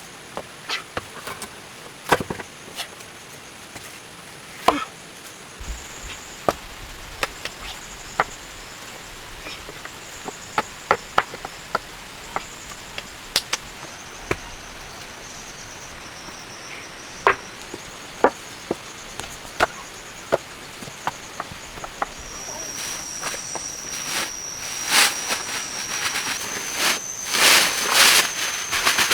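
Irregular sharp chopping knocks, a blade cutting wood, with steady high insect trilling behind them; near the end the insect trill grows louder and the knocks come thicker.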